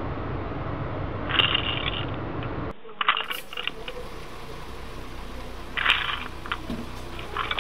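Hard plastic Lego pieces clattering and clicking in short bursts, over a steady low hum that cuts off abruptly about three seconds in.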